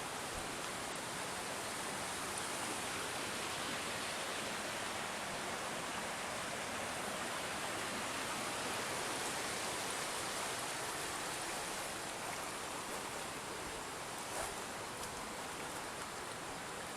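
Water flowing steadily along an irrigation canal, an even rushing hiss that eases off a little after about twelve seconds, with a couple of faint clicks near the end.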